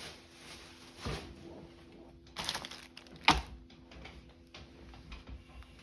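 Small rubber stamps and craft supplies being handled on a table: a knock about a second in, a short scraping rustle, then a sharp clack just past the middle, the loudest sound.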